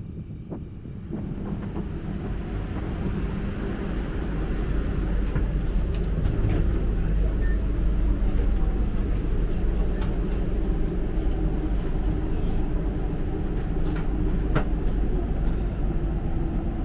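KTM ETS Class 93 electric multiple unit train running, a steady low rumble with humming tones that builds over the first several seconds and then holds, with a few sharp clicks.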